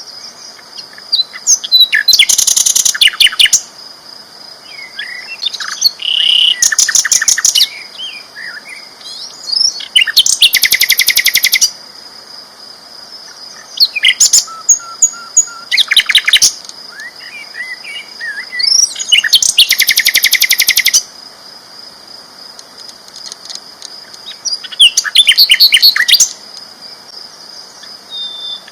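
Sikatan londo flycatcher singing loudly in repeated bursts, each a second or two of rapid chattering notes and sharp whistles, with short pauses between them.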